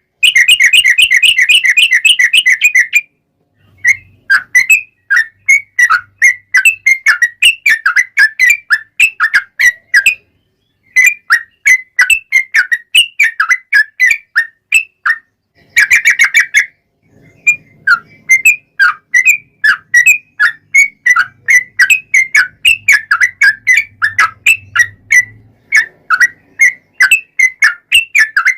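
Yellow-vented bulbul (trucuk) giving a long, rapid-fire 'ropel' song of quick bubbly notes. It opens with a fast unbroken trill, then runs on in chattering phrases with a few short pauses.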